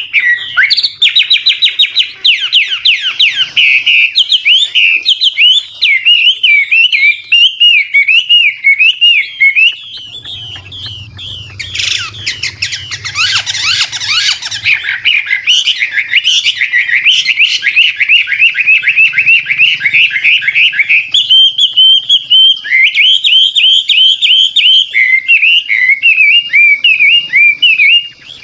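Chinese hwamei singing a fast, continuous song of rapid trills, repeated notes and whistled glides, switching phrases again and again. A brief harsh, noisy stretch comes near the middle.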